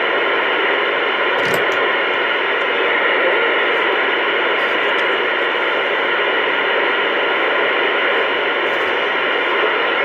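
Loud, steady static hiss, even and unchanging, with no voice or tone in it.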